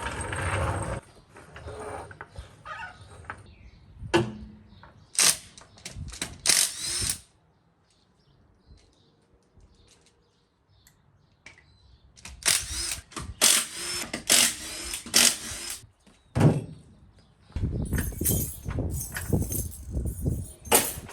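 Intermittent clanks, knocks and rattles of metal tools and parts being handled, in several bursts with a silent stretch around the middle.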